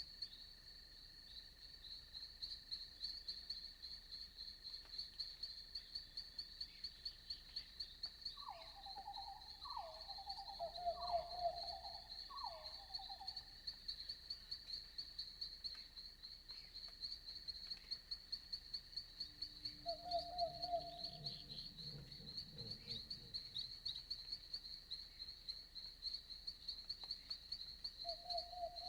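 Night forest ambience: insects trill in a fast, steady high pulse over a fainter steady high drone. A lower animal call sounds as four falling notes about a third of the way in, and as a short single call twice later.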